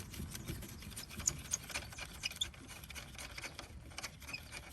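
A run of faint small metallic ticks and rubbing as the nut is spun off the threaded stud of a sway bar link by hand.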